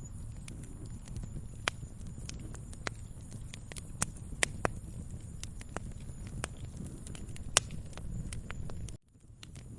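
Wood fire crackling in a fireplace: irregular sharp pops and snaps over a low steady rumble. The sound drops out briefly about nine seconds in, then returns.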